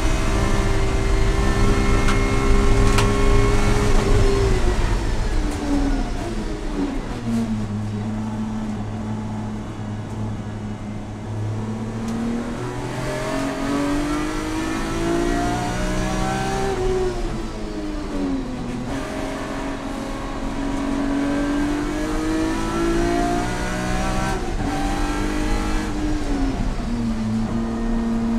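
Track car's engine heard from inside the caged cockpit, held high near 7,700 rpm at full throttle, then falling after about four seconds as the car slows from over 100 mph for a corner. It stays low through the turn, then climbs, dips and climbs again as the car accelerates out, drops once more near the end and starts rising again.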